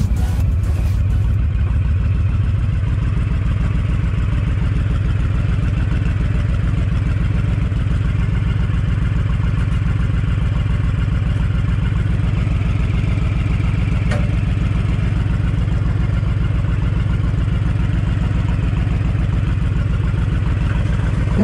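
Honda 1300 cruiser's V-twin engine idling with a steady, even low beat.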